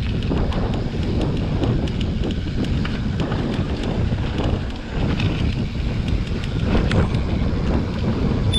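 Wind rushing over the camera microphone of a mountain bike ride, with short ticks and rattles from the bike over the rough trail.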